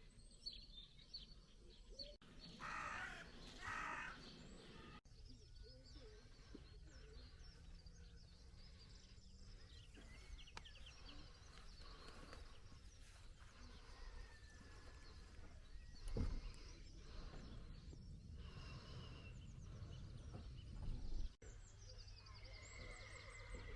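Birds calling and chirping over a faint low rumble, with two loud harsh calls about three and four seconds in.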